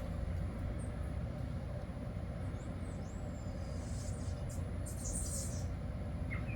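Steady low outdoor background rumble, with a few faint high chirps about half a second in and around the middle.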